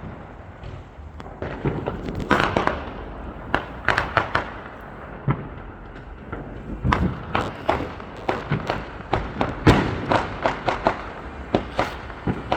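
Fireworks going off in an irregular volley of sharp bangs and pops, some in quick clusters, with the loudest bang about ten seconds in.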